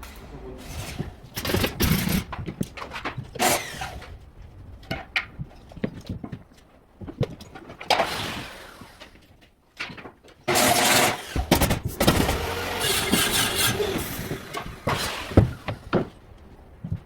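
Carpentry work on a building site: a run of irregular knocks and clatter, then from about ten seconds in a louder, continuous noisy spell of work that lasts about five seconds.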